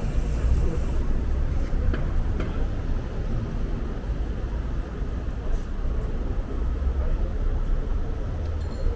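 Steady low rumble of city traffic and road noise, with a couple of faint clicks about two seconds in.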